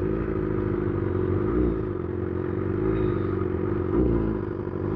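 BMW S1000RR's inline-four motorcycle engine running at low, fairly steady revs, with a few small rises and dips in pitch.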